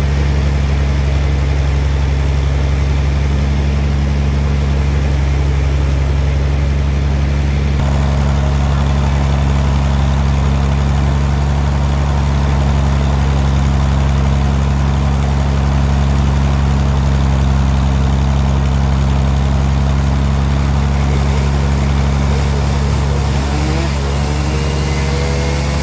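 Band sawmill running with a steady, loud low machine drone; about eight seconds in, a higher rushing noise joins it.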